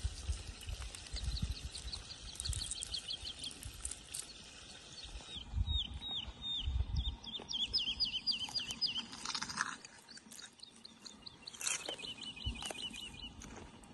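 A songbird singing: three long trills of quick, high, down-slurred chirps, about four a second, with short pauses between them.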